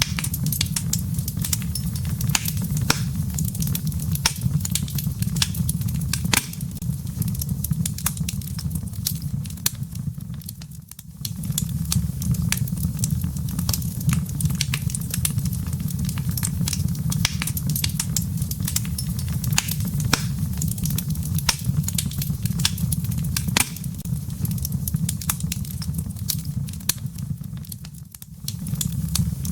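Wood fire crackling in a fireplace: frequent sharp pops and snaps over a steady low rumble of the flames. The sound briefly drops away twice, about eleven seconds in and near the end.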